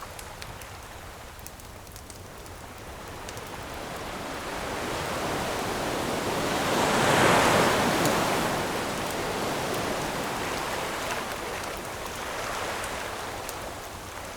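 Ocean surf: a wave builds, breaks and washes out, loudest about seven seconds in, with a smaller surge near the end. Faint, sparse crackles of a campfire come through over it.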